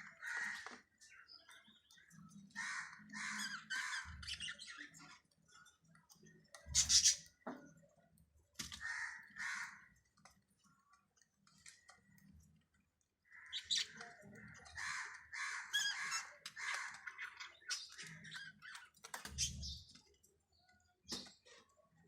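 Budgerigar chicks giving repeated raspy, squawking calls in bursts, with a few low bumps in between.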